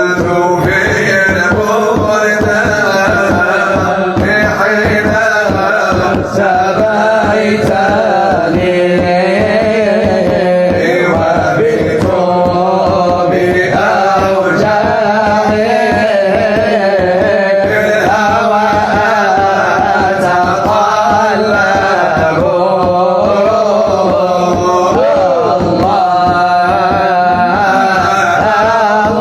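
A religious song (nasheed) is sung with a wavering melodic voice line over a steady drum beat, and the music runs loud without a break.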